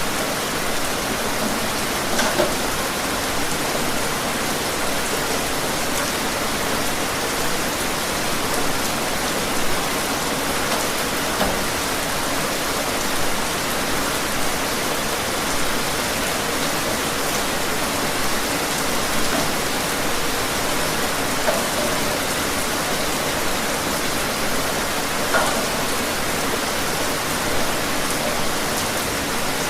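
Steady rain falling outdoors, an even hiss with scattered louder drops hitting nearby surfaces.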